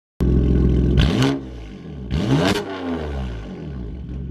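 BMW F82 M4's twin-turbo straight-six, breathing through an Armytrix valved exhaust with downpipes, being revved loudly. It cuts in abruptly at a steady high engine speed, then gives two quick blips, the pitch rising and falling each time.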